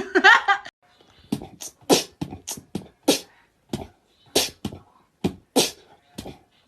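Beatboxing: short, sharp mouth-percussion hits, two or three a second at an uneven rhythm, starting just under a second in.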